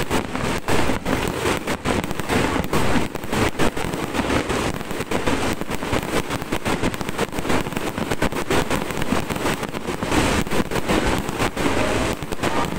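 Aerial fireworks display: a dense, continuous barrage of shell bursts and crackling, many sharp reports following one another with barely a pause.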